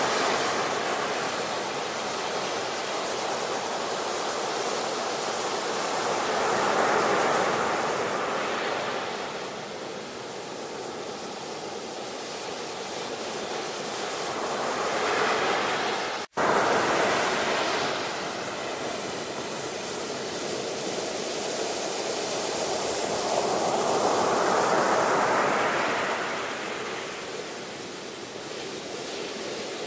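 Ocean surf, waves breaking and washing back in a steady rush that swells and ebbs every eight or nine seconds. There is a split-second gap in the sound about halfway through.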